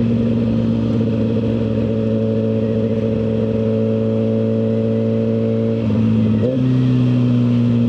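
Suzuki GSX-R1000R inline-four sport bike running at a steady cruise through a full aftermarket exhaust, its note sinking slowly in pitch. About six seconds in it briefly breaks, then picks up again, steady.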